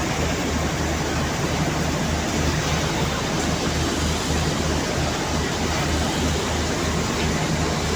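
Passenger train pulling out of the station: a steady rumble with a low, regular throb of about three pulses a second.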